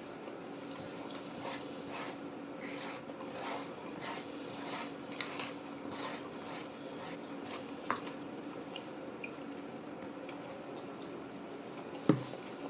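Close-up chewing and small clicks of eating a takeout meal, with a sharp knock near the end, over a steady low hum.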